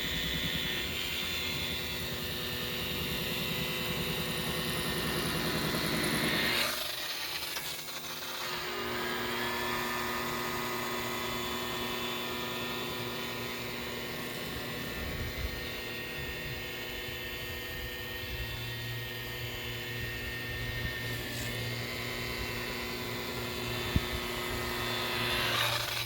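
Electric buffer polishing boat gelcoat, running with a steady whine. About a quarter of the way through it drops off briefly, then winds back up to speed.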